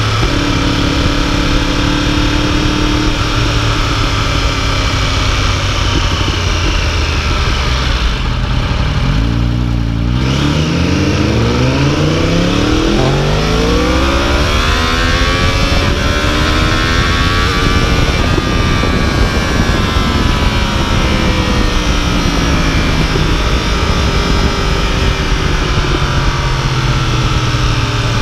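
A 2015 Yamaha YZF-R1's crossplane inline-four engine running under way. Its note sinks low about eight to ten seconds in, climbs steadily for about eight seconds as the bike accelerates, then slowly falls again.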